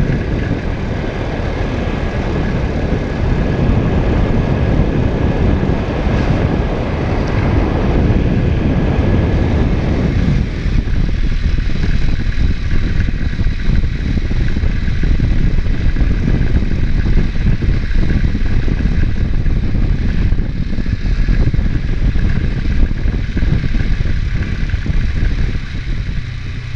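ATV engine running as it is ridden along a trail, a dense steady rumble. About ten seconds in, the higher part of the sound falls away and the low rumble carries on.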